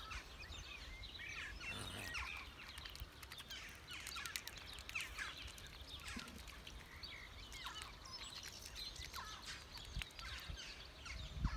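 Birds chirping and peeping in many short, high calls, over a low rumble.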